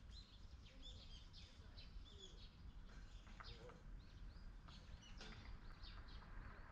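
Small birds chirping faintly in many short, high notes, over a low steady background rumble.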